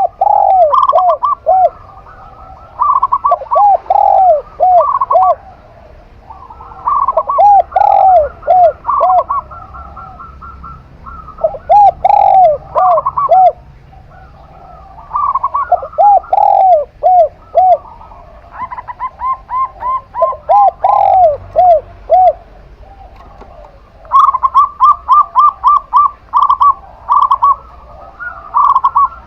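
A zebra dove (perkutut) and a spotted dove (tekukur) cooing in repeated phrases that overlap and answer each other. The higher voice is a quick run of short notes; the lower is a series of arching coos.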